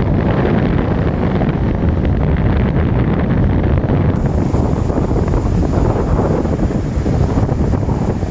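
Strong wind buffeting the microphone, loud and steady, with surf breaking beneath it.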